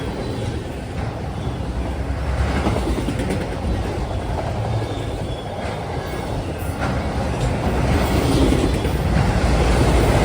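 Mixed freight train rolling past: a steady heavy rumble of cars and wheels on the rails, with a few faint clicks of wheels over the rail joints.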